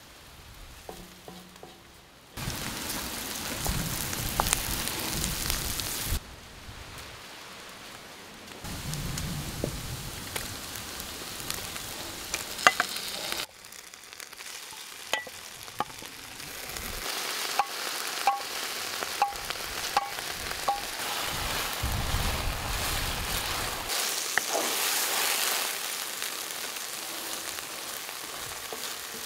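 Wild mushrooms and potatoes sizzling as they fry in a pan, stirred with a utensil that clicks and taps against it now and then. The sizzle changes level abruptly several times.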